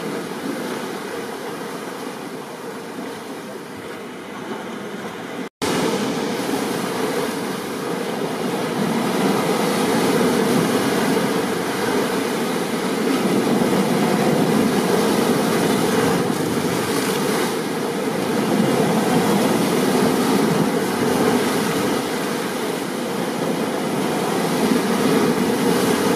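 Steady noise of a stormy sea and rain, an even wash of surf and rainfall, with a momentary dropout to silence about five and a half seconds in.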